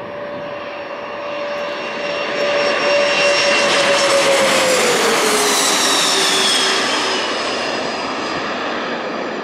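Jet airliner passing low overhead as it comes in to land. The engine roar swells, its whine drops in pitch as the plane goes past about five seconds in, and the roar then slowly fades.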